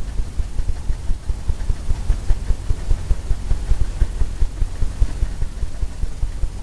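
Bristle brush dabbing paint onto a canvas on an easel: quick, irregular low thumps.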